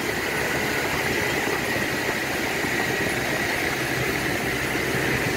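Truck engine running steadily under a constant rumble of road and cab noise, with a thin high whine held throughout.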